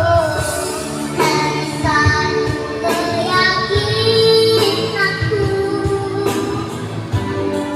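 A young girl singing a melody over musical accompaniment, holding some notes for about a second.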